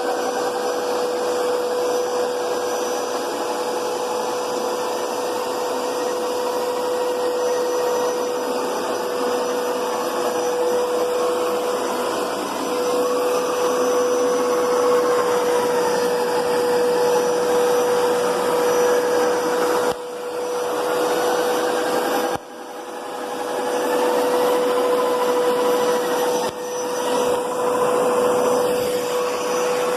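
Hoover Power Scrub Deluxe carpet cleaner running, a steady motor whine under a rushing suction noise, with a wavering higher tone. It dips sharply and briefly three times in the second half.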